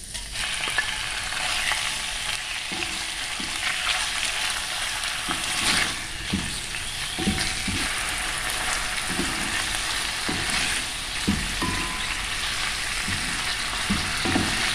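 Chicken pieces frying in hot cooking oil in a pan, a steady loud sizzle that begins as they go in, with a spatula stirring and knocking irregularly against the pan.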